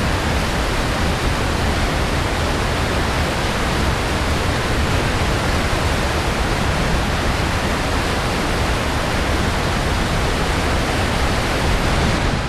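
Whitewater rushing through the Penrith Whitewater rapids course: a loud, even, unbroken noise.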